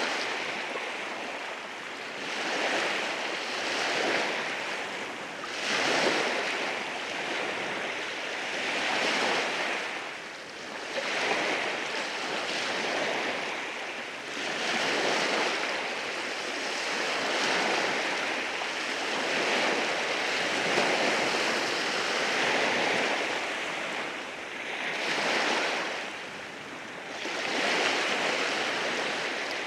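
Waves washing in over rocks on a beach: a continuous surf noise that swells and ebbs every two to four seconds.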